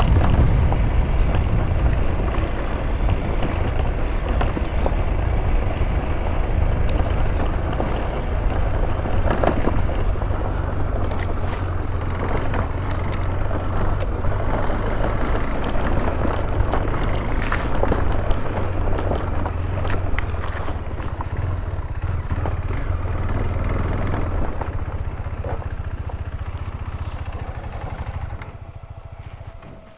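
Adventure motorcycle engine running steadily while riding a rough dirt trail, with scattered knocks from the ground. The engine sound fades away over the last few seconds.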